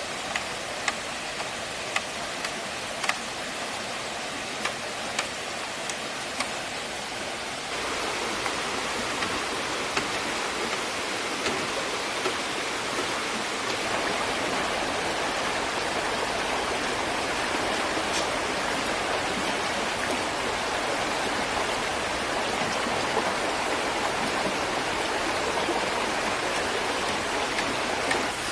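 Water of a small river or stream flowing steadily. Over the first seven seconds or so there are scattered sharp knocks, about a dozen of them. About eight seconds in, the rush of water gets louder.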